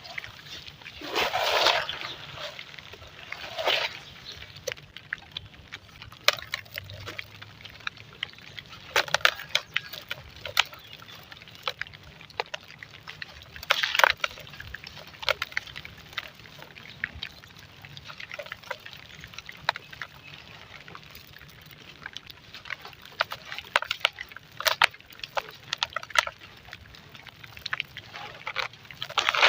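Clumps of dry and wet golden sand crumbling, with irregular crunching and crackling and a few louder crumbles near the start and about halfway.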